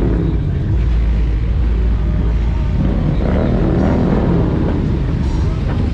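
A car engine running with a deep, steady low-end sound that swells a little a few seconds in.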